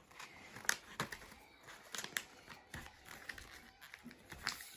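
A sheet of paper being folded and pressed flat by hand, rustling with several sharp crackles of the paper.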